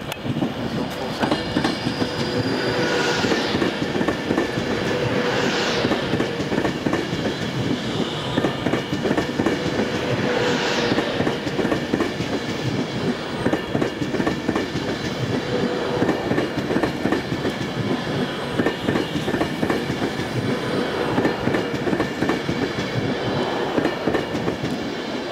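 Class 390 Pendolino electric train running slowly past along the platform, its wheels clattering steadily over the rail joints. Three brief high-pitched swishes come in the first half.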